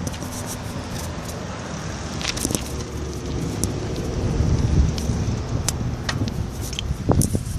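Bicycle being ridden across a road near traffic: a low rumble of wind and road noise that swells about halfway through, with frequent sharp clicks and rattles from the bike.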